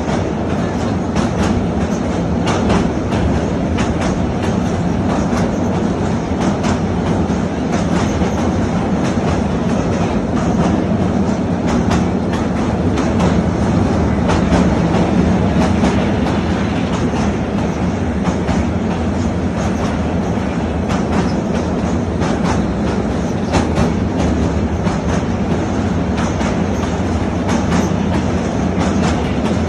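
Passenger train running across a steel truss railway bridge, heard from a carriage window: a steady rumble of wheels on rails with frequent clicks and clacks.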